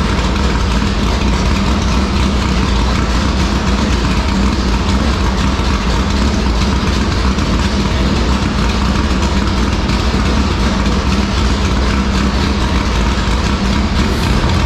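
IMCA Modified race car's V8 engine running at a steady, loud idle, being run so it can be fogged with storage oil for the winter.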